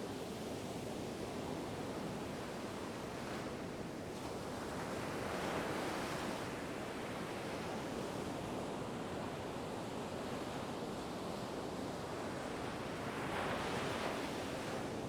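Ocean waves breaking and washing up the shore: a steady surf noise that swells as each wave comes in, a few times over, most strongly near the end.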